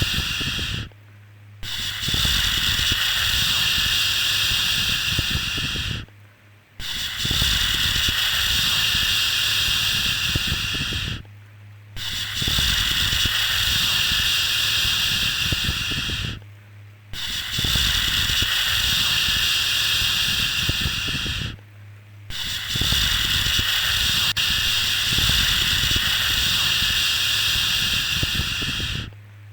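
A long soothing 'shhh' shushing sound, repeated: each shush lasts about four to five seconds, then breaks off for a short pause before the next.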